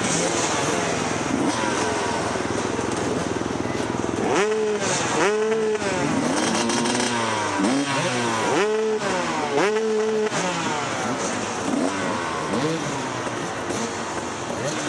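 Dirt bike engine under race throttle, its pitch repeatedly rising and dropping as the rider opens and closes the throttle and shifts, with other bikes' engines mixed in during the first few seconds.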